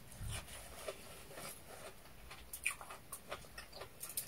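Close-miked eating sounds: chewing, with irregular soft mouth clicks and smacks a few times a second.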